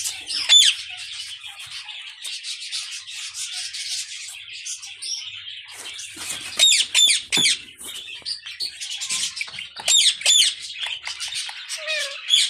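A group of small birds chattering continuously, with louder squawking calls breaking through about half a second in, again around six to seven seconds, and around ten seconds.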